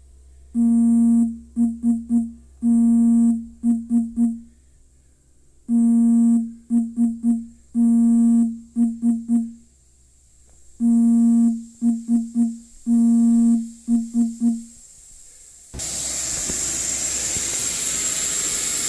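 A repeating electronic tone on one pitch, a long note followed by four short ones, sounds in evenly spaced groups. About 16 seconds in, a loud steady rushing noise with a thin high whine starts up; from the setting this is the carpet-cleaning equipment being turned on.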